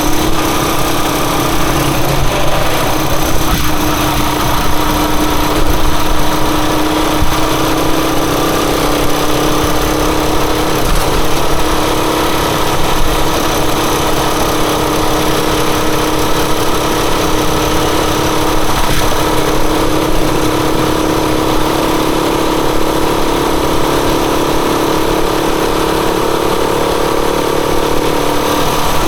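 Rusi Chariot 175 motorcycle engine running steadily at an even speed, its pitch holding level throughout, over a constant rush of noise.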